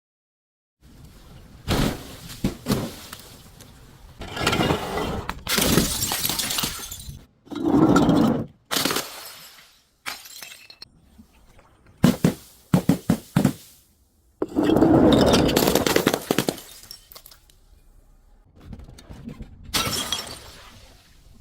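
Glass bottles being smashed and crushed: a series of separate crunching, shattering bursts with short pauses between, including a long crash about two-thirds through.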